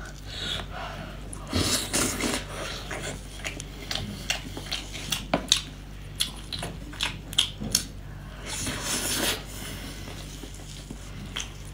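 Close-up eating sounds of a woman eating sauce-coated brown crab meat: wet chewing and lip smacks with scattered short sharp clicks, and a denser stretch of crackling noise about nine seconds in.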